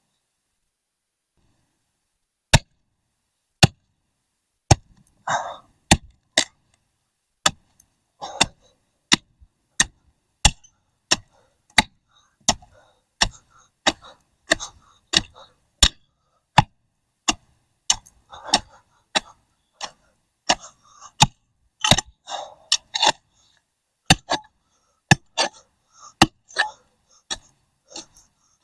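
A pick striking hard clay soil and old tree roots, over and over. The sharp strikes come about one to two a second, starting a couple of seconds in, and some are followed by a short crumble of loosened dirt.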